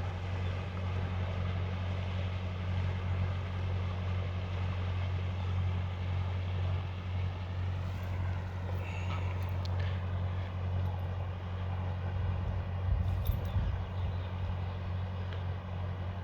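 Steady low outdoor rumble with a hiss above it, like distant road traffic or wind, and a few faint brief sounds about halfway through and again near the end.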